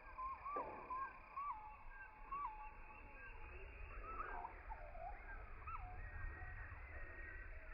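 Several birds calling at dawn: short, curving whistled notes repeated over and over, with a low wind-like rumble underneath.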